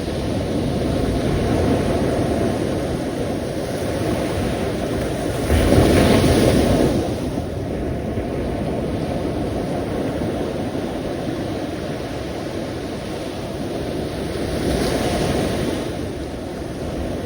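Sea waves washing onto a shore in a steady surf, with one louder wave breaking about six seconds in and a smaller swell near the end.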